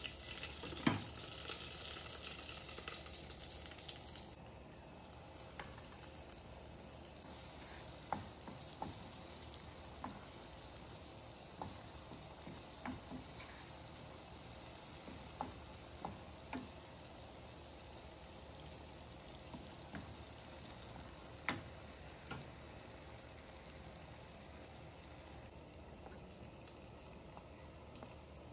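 Sliced onions and tomatoes sizzling in hot oil in a frying pan, with a glass lid knocking down onto the pan about a second in. After about four seconds the frying is quieter, and a wooden spatula knocks and scrapes against the pan every second or two as the tomato gravy is stirred.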